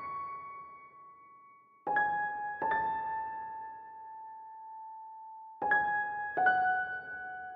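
Slow solo piano music: single clear notes struck in pairs, each pair about three seconds apart, every note left to ring and fade.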